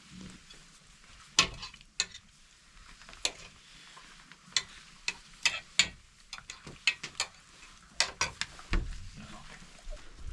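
Wood fire crackling, with irregular sharp pops and snaps, a few a second.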